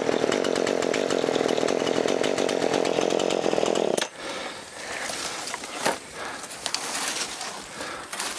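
Two-stroke chainsaw just off the throttle, idling steadily until it is shut off about four seconds in. A few sharp clicks follow.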